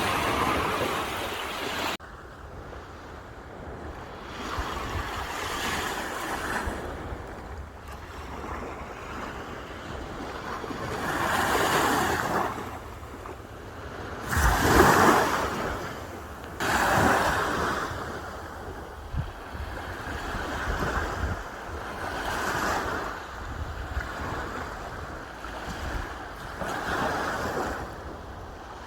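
Sea waves breaking and washing onto the shore, surging and ebbing every few seconds, the biggest surge about halfway through.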